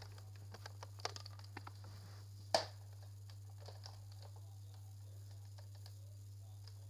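Plastic clicks of a Nerf blaster being handled: a few faint clicks about a second in and one sharp click about two and a half seconds in, over a steady low hum.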